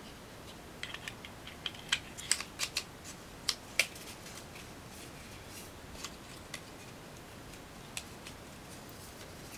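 Scattered light clicks and taps of small items and packaging being handled, quick and frequent for the first few seconds, then only an occasional click.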